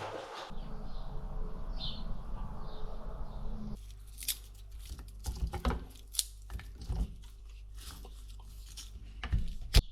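A low steady rumble that stops about four seconds in, then irregular light clicks and crunches with short pauses between them, the loudest just before the end.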